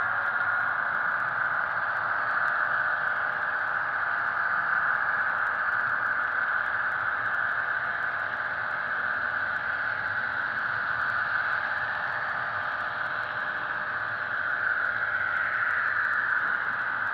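Diesel engine sound from an HO-scale model locomotive's Soundtraxx Tsunami DCC sound decoder, running steadily through the model's small speaker. It is a thin, hissy hum with no deep rumble.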